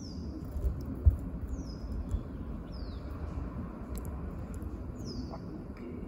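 A bird calling: a high, thin note that slides downward, given four times about every one and a half seconds. Under it runs a steady low rumble, with a few low thumps; the loudest comes about a second in.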